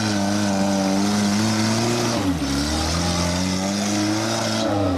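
Off-road 4x4 engine revving hard under load. The revs dip briefly about halfway through, then climb again.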